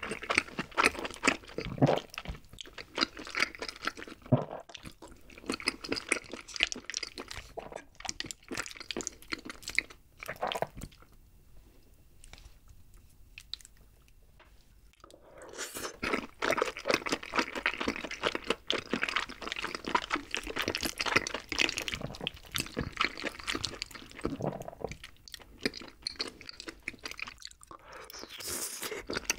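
Close-miked eating sounds of rosé tteokbokki: chewing with many small clicks. It goes nearly quiet for a few seconds around the middle, then the chewing resumes, and near the end there is a slurp from a ladle of sauce.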